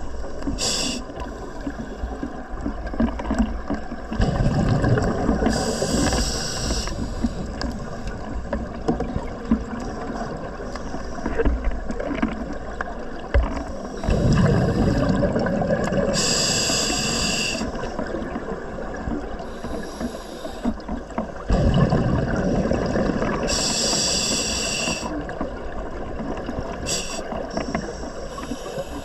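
Scuba diver breathing through an open-circuit regulator underwater. Short hisses of inhalation alternate with longer rumbling gushes of exhaled bubbles, several breaths in turn.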